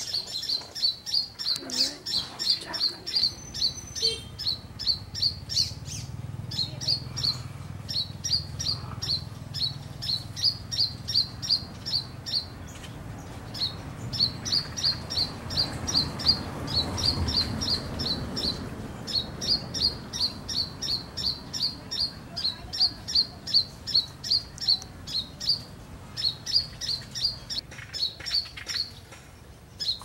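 A small songbird chirping: short, sharp high notes repeated about two to three times a second, with a few brief pauses.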